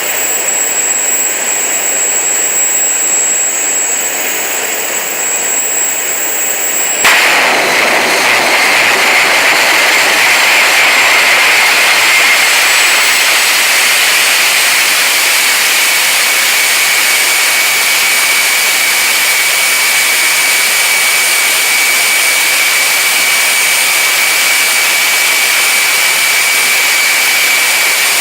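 Homemade turbocharger-based jet engine running with a steady roar and a high whistle. About seven seconds in, the sound jumps suddenly to a louder, rougher roar with a different whine, and it holds there steadily.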